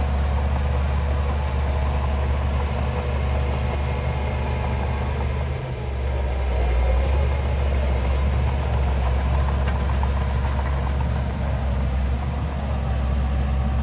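Heavy diesel engine of earthmoving machinery running with a steady low drone. About six seconds in, its note shifts and briefly drops, then picks up again.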